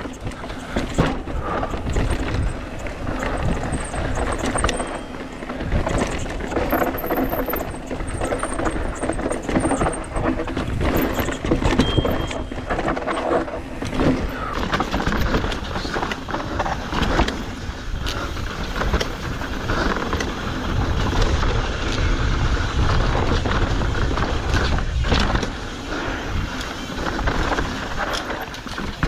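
Mountain bike riding fast down a rough trail: tyres crunching over dirt and rock, with the bike frame and chain rattling and clattering continuously and a constant low rumble of rushing air.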